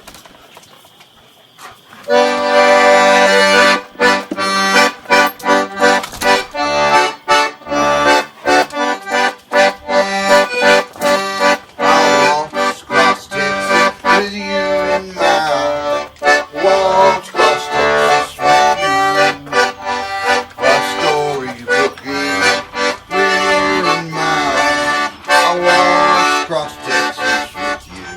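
Instrumental music, an accordion playing a tune in a quick rhythm, starting about two seconds in.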